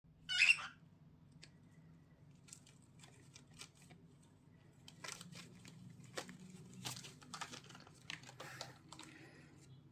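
A pet cockatiel chewing and poking at something, with scattered scratching, crinkling and tearing noises and soft clicks. A short, loud, harsh burst comes about half a second in.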